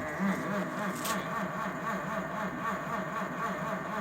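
1936 Pontiac flathead engine being cranked over by its 6-volt starter on a cold start, a steady rhythmic chugging at about four beats a second, not yet firing.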